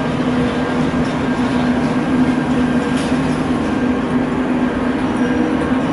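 TGV inOui double-deck high-speed train rolling past: a steady electric hum over the rumble of its wheels on the rails.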